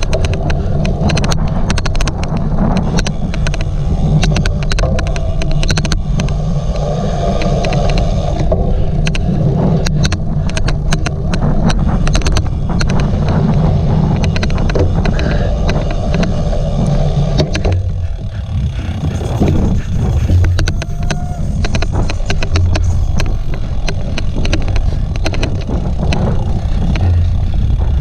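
Cyclocross bike being ridden hard off-road, heard from an on-board camera: a steady rumble of wind and tyres over rough ground, with frequent sharp clicks and rattles.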